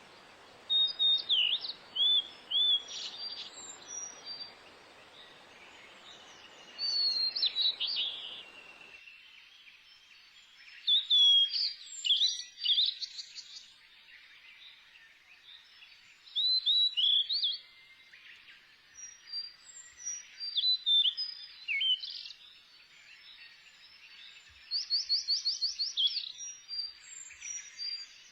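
Several small birds singing and calling: short whistled and chirping phrases, some rising or falling in pitch, with a fast trill of about ten notes near the end. A low, even background noise cuts off suddenly about nine seconds in.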